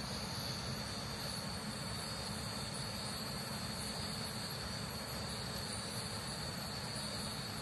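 Steady ambient hiss with a constant thin high-pitched whine over it, unchanging throughout.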